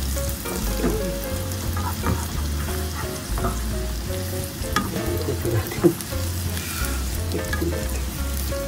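Egg and bean sprouts sizzling in a nonstick frying pan while a slotted spatula scrapes and turns them over, with a sharp clack about six seconds in.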